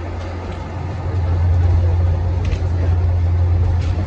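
Passenger train running along the track, heard inside the carriage: a steady low rumble that grows louder about a second in, with a few short knocks.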